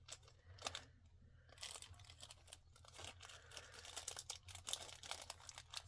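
Faint crinkling and rustling of plastic packaging being handled, with scattered small clicks, busier from about a second and a half in.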